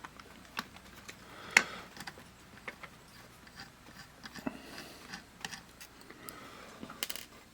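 Scattered light clicks and taps of a small screwdriver and the multimeter's plastic parts being handled while its screws are taken out, with two sharper clicks, one about a second and a half in and one near the end.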